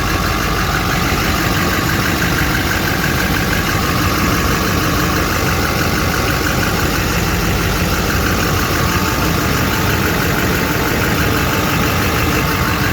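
Chevy pickup's diesel engine idling steadily.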